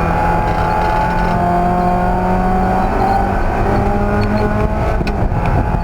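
Race car engine running steadily, its pitch slowly climbing.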